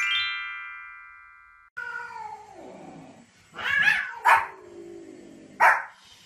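A chiming jingle sweeps with the countdown card and fades out. Then a small white spitz-type dog barks at a cat: after a long falling cry come a few sharp barks about halfway through and one more near the end.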